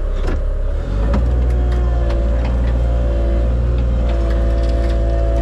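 Dump truck engine running steadily under load, a little louder from about a second in.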